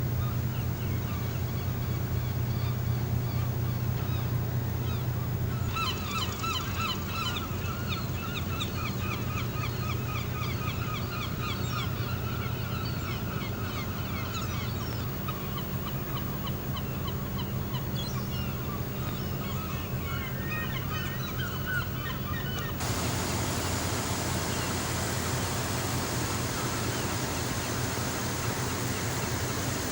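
Many birds calling at once in short, repeated honking calls over a steady low mechanical hum. About three-quarters of the way through, the calls stop abruptly and an even rushing hiss takes over.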